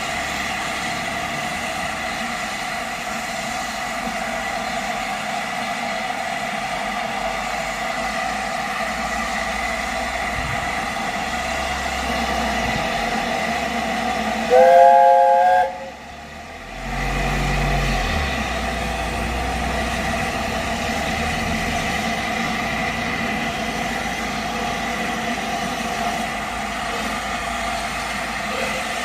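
An LNER A4 steam locomotive's chime whistle sounds once, a short chord of several tones about halfway through, over a steady background noise. A low rumble follows shortly after.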